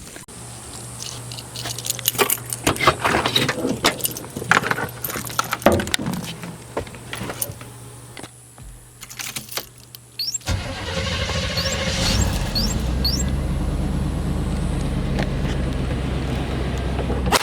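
Keys jangling and a series of clicks and knocks, then about ten seconds in a truck engine starts and runs steadily.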